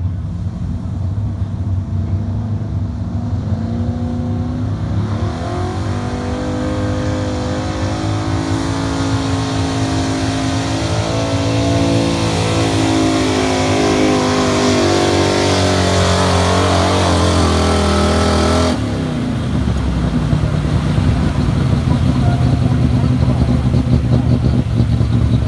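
Gasoline pickup truck engine at full throttle pulling a sled, its pitch climbing slowly as the truck moves down the track. About three-quarters of the way through it drops abruptly to a lower, rougher note.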